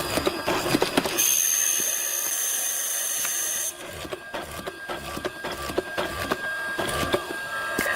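Workshop tool noise: rapid clicks and knocks, broken about a second in by a steady high hiss that lasts about two and a half seconds.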